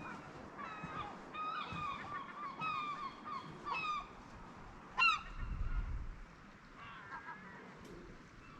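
Seagulls calling: a quick series of short, repeated cries, then one louder cry about five seconds in, followed by a brief low rumble, and a few more cries near the end.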